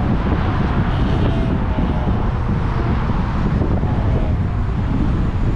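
Steady wind rushing over a roof-mounted GoPro on a moving Chevrolet Malibu, with road and tyre noise underneath.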